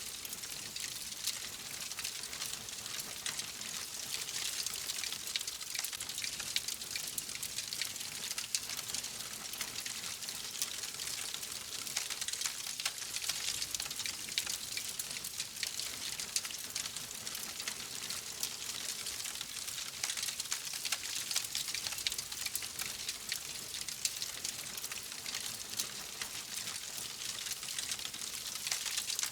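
Wood fire crackling steadily: a dense stream of small pops and snaps over a soft hiss.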